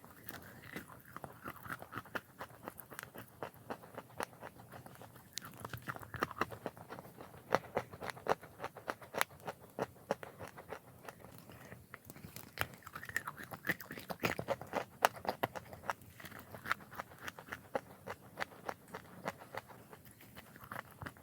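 Close-miked biting and chewing of edible chalk in big bites: dense, sharp crunches and crackles, several a second, with louder crunches clustered around the middle of the stretch.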